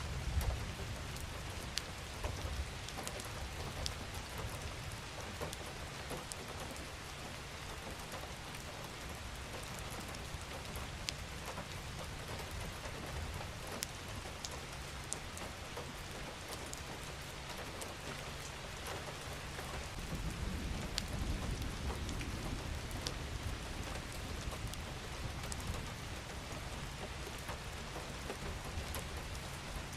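Steady rain falling: an even hiss with individual drops ticking on a surface. A low rumble swells for a few seconds about two-thirds of the way through.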